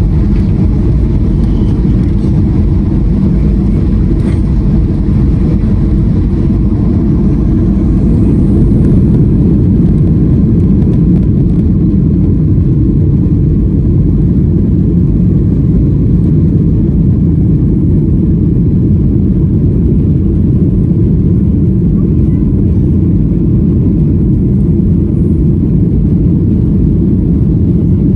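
Cabin noise inside a Boeing 737-900 in motion: a loud, steady low rumble of its CFM56-7B turbofan engines and the airflow around the fuselage.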